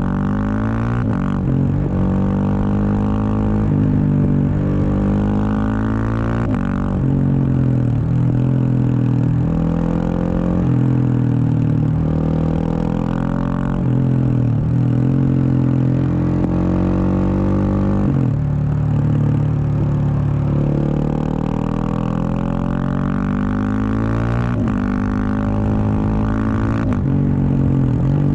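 Husqvarna 701 Supermoto's single-cylinder engine through a Wings aftermarket exhaust, ridden hard: it pulls up in pitch through the gears, dropping back at each shift, with several such runs and easing off between them.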